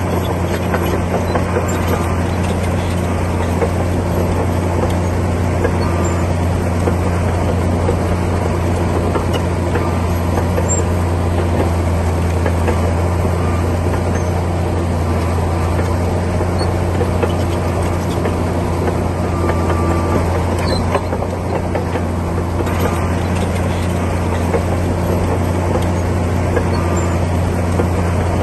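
Komatsu D60P bulldozer's diesel engine running steadily at a constant pitch.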